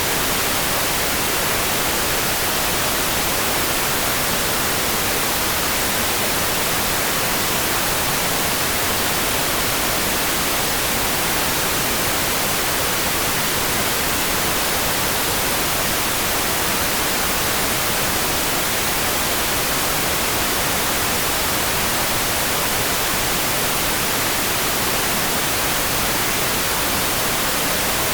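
A steady rain-sound track: an even, unbroken hiss with no separate drops or changes, close to white noise.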